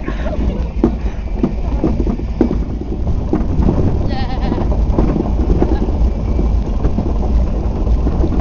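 Heavy wind buffeting on the microphone and a low rumble from riding in the open back of a moving truck, with frequent knocks from the handheld camera being jostled. A brief high wavering squeal comes about four seconds in.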